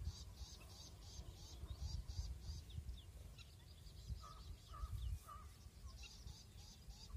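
Birds chirping: a rapid run of high chirps, about three a second, at the start and again near the end, with quick falling tweets between them and three short lower calls about halfway through. Low wind rumble on the microphone runs underneath.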